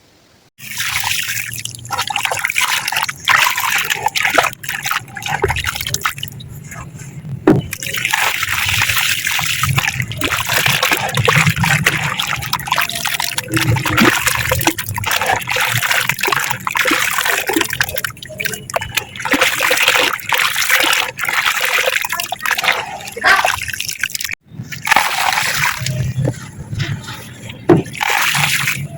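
Soft white concrete crumbling in water: wet crackling and sloshing, full of small sharp crunches, coming in loud uneven stretches with a brief break near the end.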